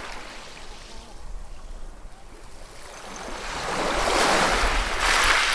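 Ocean waves breaking on a shore. A wave's hiss swells about three seconds in and crashes loudest near the end, after a smaller wash at the start.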